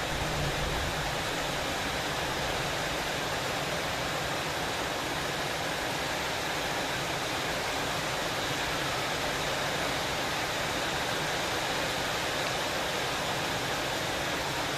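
Rain falling steadily: an even, unbroken hiss with no single drops or other events standing out.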